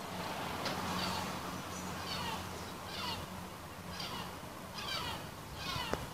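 A bird calling over and over, about one short call a second, each falling in pitch, over a steady low city hum. A single sharp crack near the end, a distant gunshot.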